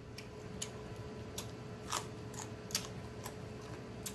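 Close-miked chewing: a man eating with his mouth, making soft wet smacks and clicks at irregular intervals, about eight to ten of them.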